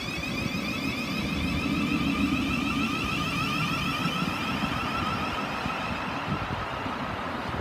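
Class 700 Thameslink electric multiple unit pulling away from the platform: its traction motors give a warbling whine over a low rumble. The sound eases off slightly in the second half.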